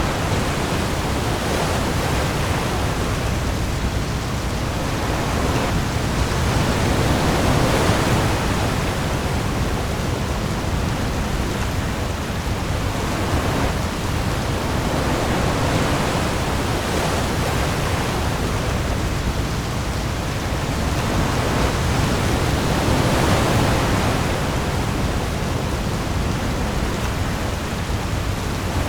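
Heavy rain falling on the sea with waves, a dense steady hiss over a deep low rumble. It swells up slowly twice, once about a quarter of the way in and again about three-quarters of the way through.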